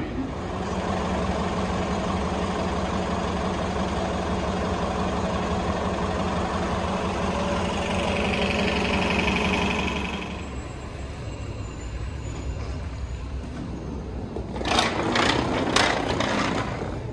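Passenger train running with a steady motor hum and rumble, a hiss swelling near ten seconds before the sound eases off. A quick cluster of clicks and knocks follows near the end.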